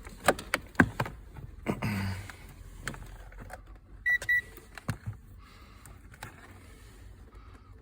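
Sharp clicks and knocks as multimeter test leads and probes are handled, then a short double beep from a digital multimeter about four seconds in, followed by two more light clicks.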